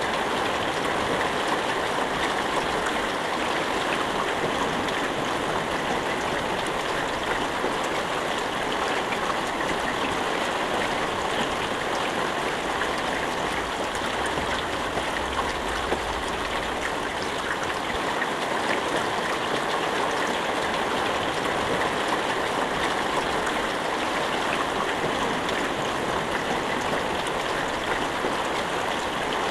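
Steady rain falling, a constant even hiss with fine drop ticks and no thunder.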